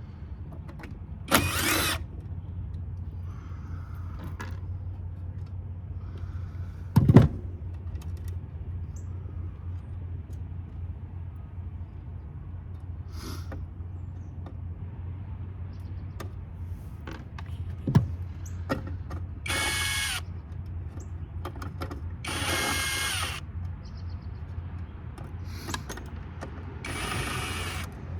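Cordless drill-driver backing screws out of a metal power-supply case in short runs of about a second, five times, with its clutch set to low torque. A sharp knock comes about seven seconds in, and a steady low hum runs underneath.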